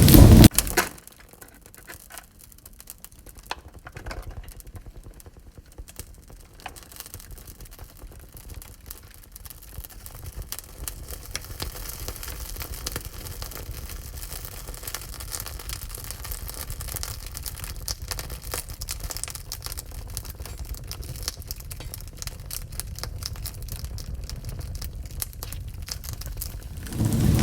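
Wood fire in a wood-burning stove crackling softly, with many small irregular snaps and pops over a faint low rumble. A loud rushing noise cuts off suddenly under a second in.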